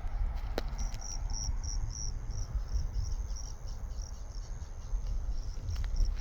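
An insect, most likely a cricket, chirping in short high-pitched pulses about four times a second, starting about a second in, over a steady low rumble.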